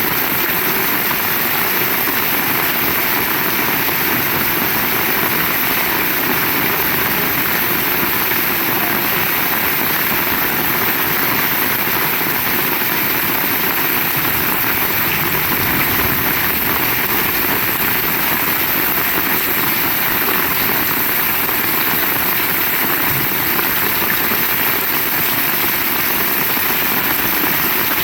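Heavy rain falling: a steady, even hiss of rain with no breaks.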